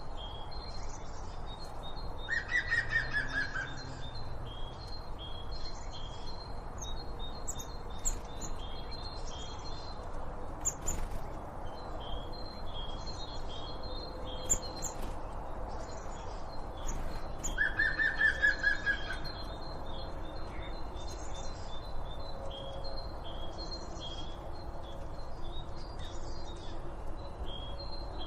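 Wild birds singing: a steady chorus of short, high, repeated chirps. A louder, rapid descending trill comes twice, a couple of seconds in and again about fifteen seconds later.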